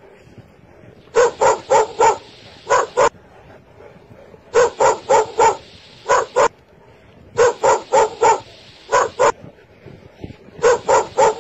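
A dog barking in repeated bouts, each one four quick barks followed by two more, starting again about every three seconds.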